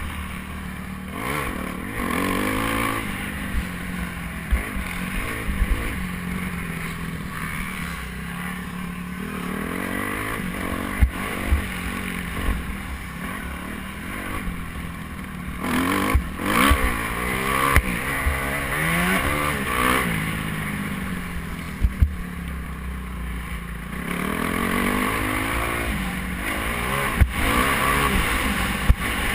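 Motocross bike engines revving up and down over and over, the pitch climbing and dropping, with scattered sharp thumps.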